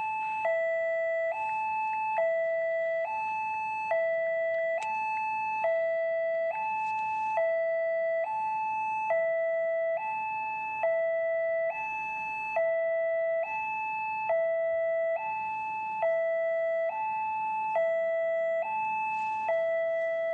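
Railway level-crossing warning alarm: an electronic two-tone signal alternating steadily between a higher and a lower note, each held about a second. It is the sign that the crossing is closing or closed for an approaching train.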